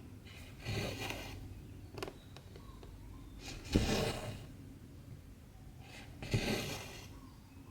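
Cotton embroidery thread being pulled through 14-count cross-stitch fabric. There are three pulls about two and a half seconds apart, each a short rasp with a sharp start, and a small tick in between.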